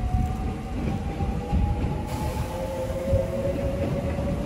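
White limited-express electric train moving slowly past along the far platform, with a low rolling rumble and a faint whine that slides slowly lower in pitch.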